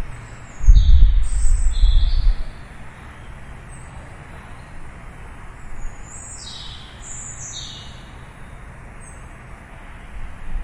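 Birds chirping in two bouts of short, high calls that slide downward, over a steady hiss of distant city traffic. A loud low rumble runs for about a second and a half near the start.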